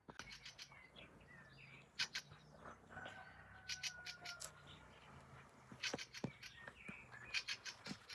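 Small birds chirping: clusters of short, sharp high chirps, with a brief thin whistle about three seconds in, over a faint low hum.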